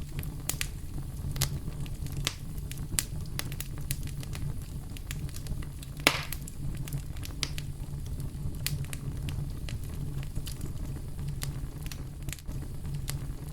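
Campfire crackling, with irregular sharp pops and one louder pop about six seconds in, over a steady deep brown-noise rumble.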